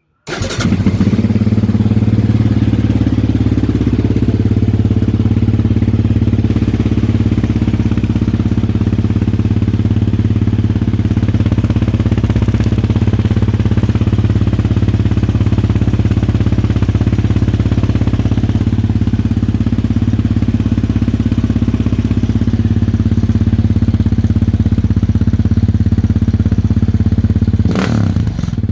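Yamaha Raptor 700R ATV's single-cylinder four-stroke engine, fitted with a Yoshimura RS-2 full exhaust, starting up and then idling steadily. The sound changes briefly near the end.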